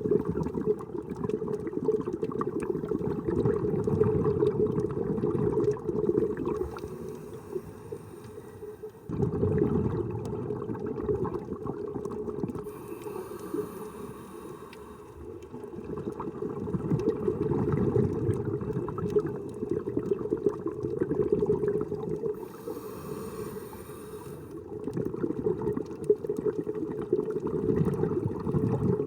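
Scuba diver breathing underwater through a regulator: four long bursts of exhaled bubbles, each followed by a quieter, hissing inhalation, every seven seconds or so.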